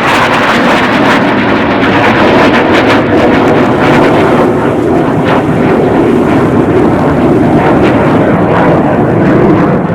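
Loud jet engine roar of a military jet flying past at an air display, steady and crackling.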